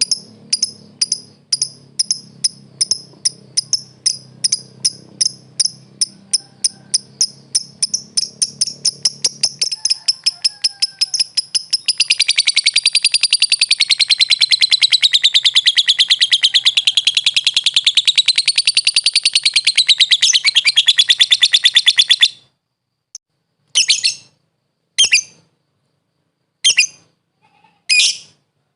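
Lovebird calling: short, high chirps that come faster and faster for about ten seconds, run together into a long, continuous rapid trill wavering up and down in pitch that breaks off abruptly, then a few single chirps spaced a second or more apart.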